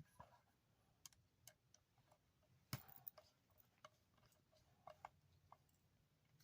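Faint, irregular clicks and light taps of hand tools and a Phillips screwdriver bit working on a small electric motor's housing, with one sharper click a little under three seconds in.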